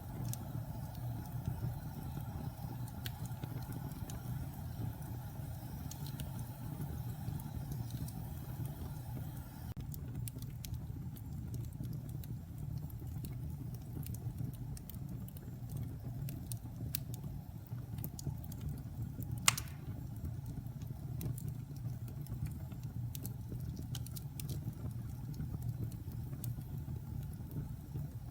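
Wood fire burning in a fireplace: a steady low rumble of flames with scattered small crackles and one sharp pop about two-thirds of the way in.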